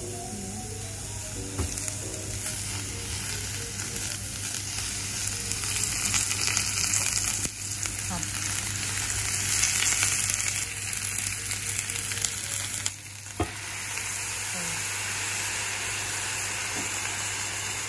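Vegetables sizzling and frying in a hot cast-iron sukiyaki pan as they are turned with chopsticks: a steady, dense sizzle. The sizzle briefly drops away with a sharp click about thirteen seconds in, then carries on.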